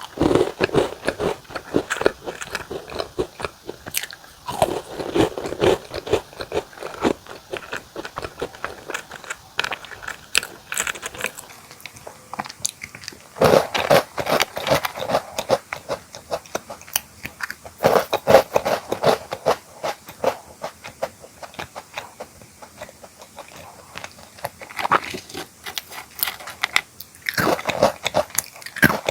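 Close-miked biting and chewing of a crunchy cookie or biscuit snack, with dense crisp crunches in bursts and quieter chewing between.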